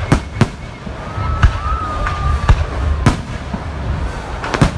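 Aerial fireworks going off: about half a dozen sharp booms, spaced unevenly, over a low rumble. A thin whistle is held for a second or so in the middle.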